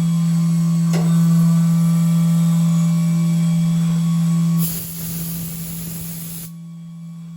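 SYIL X7 CNC mill machining aluminium, its spindle giving a steady hum. About two-thirds through, a loud hiss of spray lasts a couple of seconds, then cuts off and the hum carries on more quietly.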